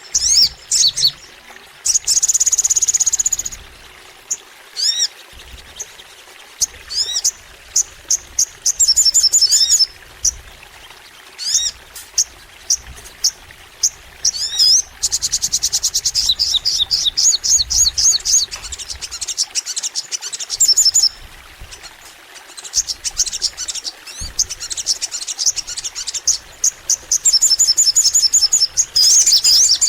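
A sogon singing energetically in long runs of high, sharp chirps and fast rattling note-strings, with a buzzy drawn-out call about two seconds in.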